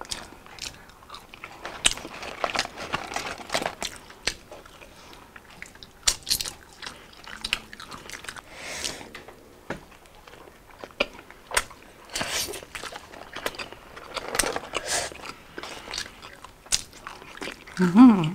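Close-miked eating: crunchy bites and wet chewing of McDonald's Twister Fries, cheeseburger and fried chicken, a string of short sharp crunches and mouth clicks.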